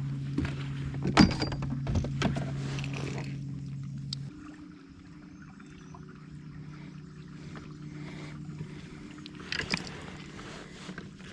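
Knocks and thuds of gear and handling on a kayak over a steady low hum. The hum drops in pitch and level about four seconds in, and a few more knocks come near the end.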